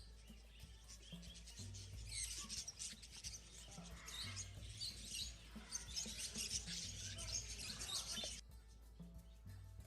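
Many small birds chirping together over background music that carries a slow, repeating low bass pattern. The chirping stops suddenly near the end, leaving the music.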